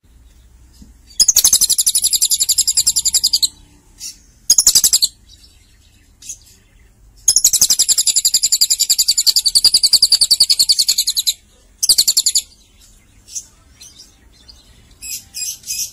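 Lovebird singing in long, very high, rapid trills: one of about two seconds and another of about four seconds, with short bursts of chattering notes between them and a run of choppy notes near the end.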